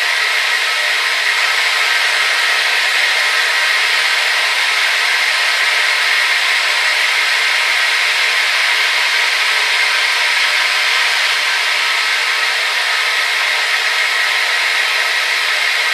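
Hair dryer running steadily: an even rushing of air with a faint motor whine, strongest in the upper-middle range, with no change throughout.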